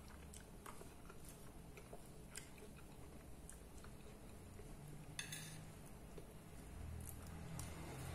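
Faint close-up eating sounds: chewing a mouthful of lettuce salad with beans, with scattered small crisp clicks and a metal fork touching a plate. A brief scratchy sound about five seconds in.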